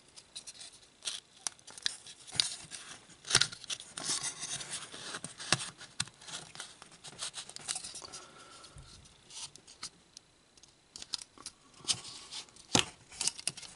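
Small plastic model-kit parts clicking and scraping against each other in the hands, with irregular sharp taps, as a push-fit thrust nozzle is worked into the pin sockets of an engine casing. A louder click comes near the end.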